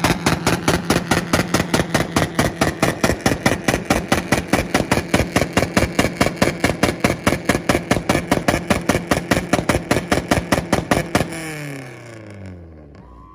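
Acura Integra engine held on its two-step launch-control limiter, cracking in a fast, steady rhythm of about six bangs a second. About eleven seconds in it is let off and the revs fall away.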